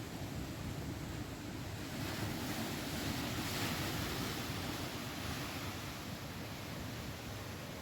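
Sea waves washing onto a shore, a steady rushing surf that swells as a wave breaks and runs in midway, then eases.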